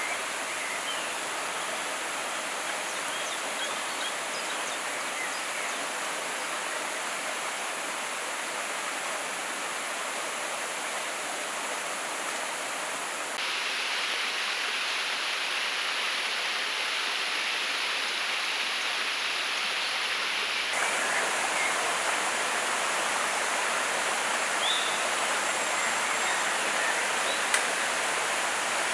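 River water rushing, a steady noise that jumps abruptly in level and tone twice, about 13 and 21 seconds in.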